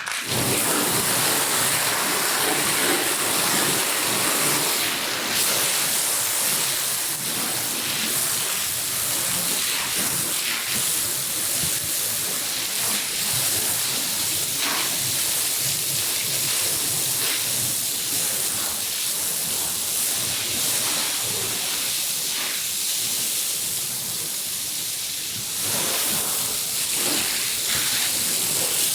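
High-pressure water spray hissing onto a soaked, mud-caked carpet, starting suddenly and running steadily.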